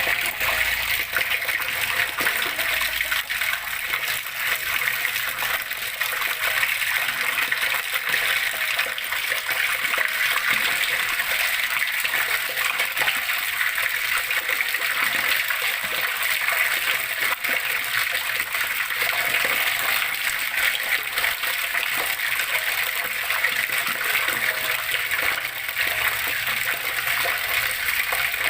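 Flowing water splashing and rushing steadily, an even, unbroken babble.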